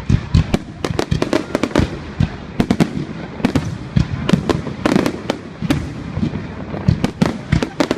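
Fireworks exploding in rapid succession: a dense run of sharp bangs and crackles, several a second, over a continuous rumble.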